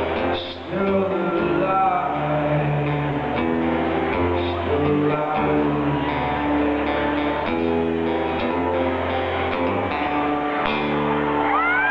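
Live acoustic-guitar-led music over sustained low bass notes, playing a wordless passage near the end of the song. Whoops from the audience start just at the end.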